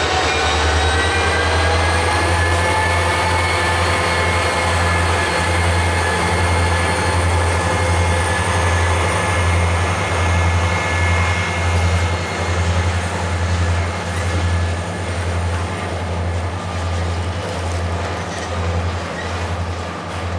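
Freight train of covered hoppers and tank cars rolling past: a steady rumble of wheels on rail with a low, uneven pulsing, and a high ringing whine from the train that fades over the second half.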